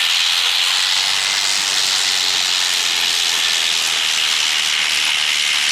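Aircraft engine running steadily close by: an even, loud rushing hiss with little low rumble.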